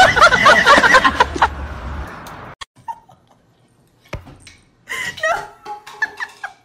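Loud laughing over a steady rushing noise that cuts off abruptly about two and a half seconds in. This is followed by a few soft knocks and brief voice-like sounds.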